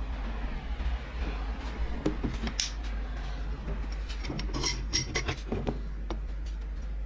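Small metal parts clinking and tapping against each other in a few scattered clusters, over a steady low hum.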